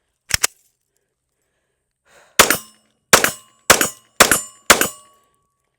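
Smith & Wesson M&P 2.0 Metal 9mm pistol firing five shots in quick succession, about half a second apart, each with a short ringing tail. A sharp double click comes just before, about two seconds ahead of the first shot.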